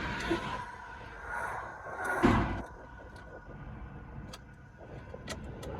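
Road traffic passing: cars going by one after another, the loudest about two seconds in, with a few light clicks near the end.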